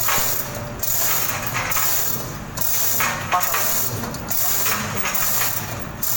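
An engine idling, with a hiss that swells and fades roughly once a second.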